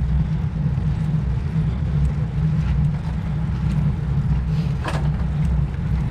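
Wind rushing over the microphone of a camera riding on a moving road bicycle: a steady low rumble, with a brief sharper noise about five seconds in.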